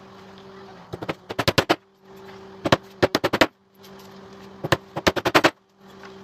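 Pneumatic pin nailer firing rapid runs of shots, three bursts of several quick cracks each, driving small headless nails into pallet-wood slats, over a steady hum.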